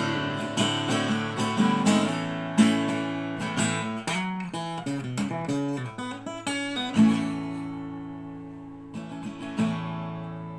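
Acoustic guitar playing the song's instrumental ending: strummed chords, then a run of single notes in the middle, then a last chord or two left ringing and fading away.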